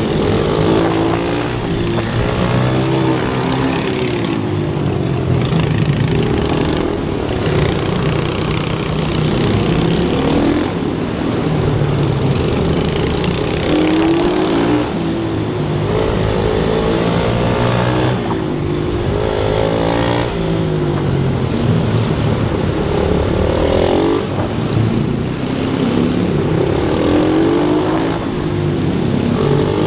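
Small single-cylinder pit bike engines being ridden hard. The pitch climbs again and again as they rev out, falling back between climbs as the throttle is shut or gears change.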